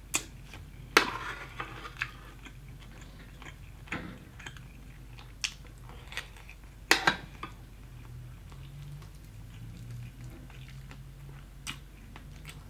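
Close-up eating: crunchy bites into fried chicken and chewing, with sharp crunches at irregular intervals, the loudest about a second in and a double crunch about seven seconds in.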